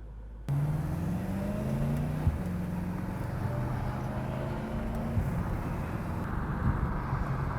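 BMW E92 M3's V8 engine and exhaust accelerating under load. It cuts in suddenly about half a second in, climbs in pitch, drops at a gear change about two seconds in, then pulls up steadily again.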